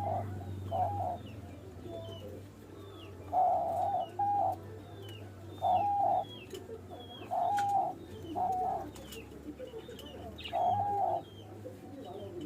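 Diamond doves cooing in courtship: short, level coos, single or in quick pairs, every second or two. Faint high chirps from small birds run underneath.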